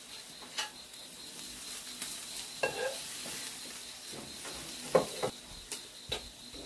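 Food sizzling on a grill, a steady hiss broken by a few light clicks and knocks.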